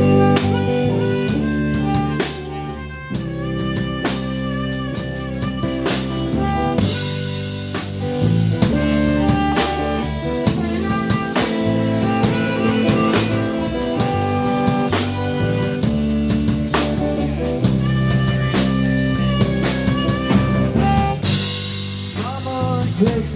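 Live blues band playing an instrumental passage with a drum kit keeping a steady beat under guitar.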